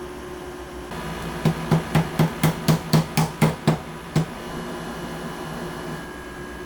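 A quick run of about ten evenly spaced knocks, about four a second, then one more knock, over a steady low hum.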